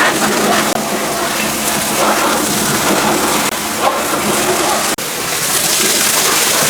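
Pressure washer jet spraying water onto a dirt-covered tractor: a loud, steady hiss with splashing. It breaks off for an instant about five seconds in, then resumes.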